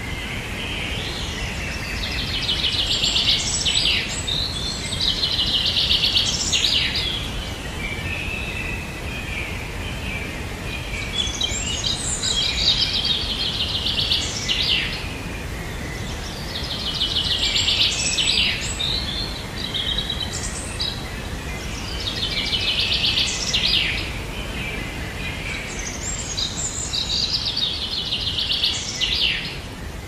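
A songbird singing short, rapid trilled phrases, about six of them, repeated every few seconds over a steady low background rumble.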